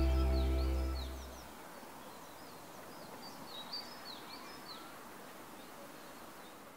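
Small birds chirping faintly, a scattered string of short, quick chirps, as sustained background music fades out over the first second and a half.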